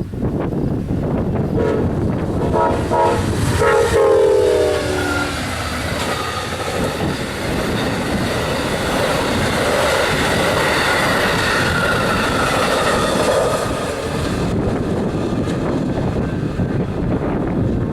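Passenger train led by two GE P42DC diesel locomotives passing at speed. The lead locomotive's air horn sounds a couple of short blasts, then a longer one whose pitch drops as it goes by. The train's cars and wheels then roll past on the rails with a steady rumble that falls away near the end.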